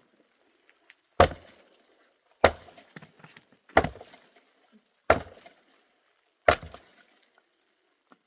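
Axe chopping wood: five heavy strokes at an even pace, about one every 1.3 seconds, each a sharp hit followed by a brief scattered crackle.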